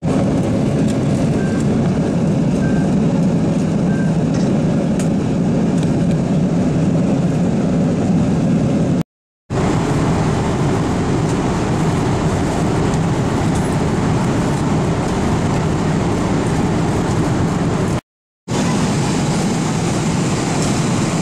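Steady cabin noise of a Boeing 777-200LR airliner in cruise, a loud even rush of jet engine and airflow noise, broken by two short silent cuts about nine and eighteen seconds in.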